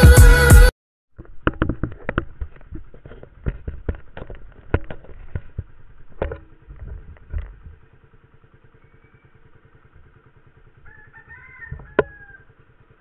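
Suzuki Raider R150's single-cylinder engine idling with a faint, even low pulse, under scattered knocks and clicks for the first several seconds. A rooster crows near the end.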